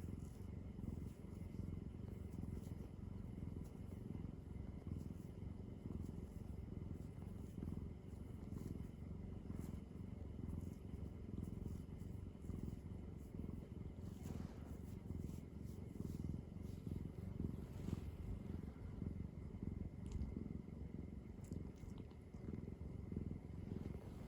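Domestic cat purring close to the microphone: a steady, fast low rumble that goes on without a break, with a few faint small clicks.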